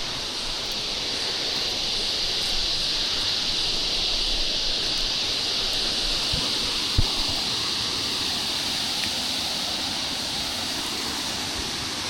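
Steady rush of falling water from a waterfall, swelling slightly then easing. A single short knock about seven seconds in.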